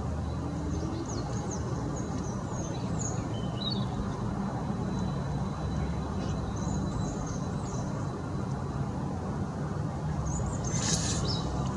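Garden birds chirping in short, high calls over a steady low background rumble, with a louder harsh call about eleven seconds in.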